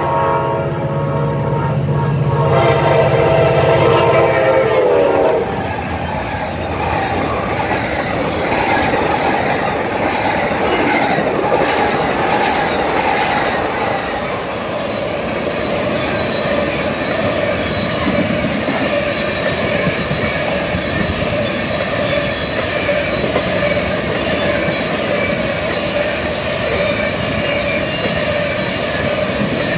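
Amtrak passenger locomotive sounding its horn at the grade crossing as it approaches, the horn dropping in pitch as it passes and cutting off about five seconds in. Then comes the rolling rumble and clatter of the passing train, and from about halfway a freight train of tank cars goes by with steady wheel squeal.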